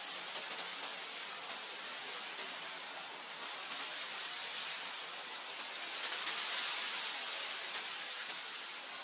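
Wind blowing through grass: a steady, high hiss with no tone in it, swelling a little about six seconds in.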